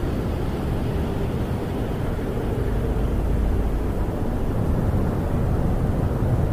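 Snowstorm wind howling around a camper, heard from inside as a steady low rumbling rush with no distinct events.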